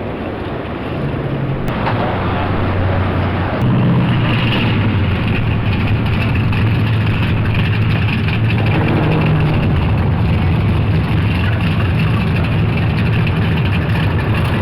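Car engine and exhaust droning steadily with road noise, heard while driving, growing louder about four seconds in as the car picks up speed and then holding steady.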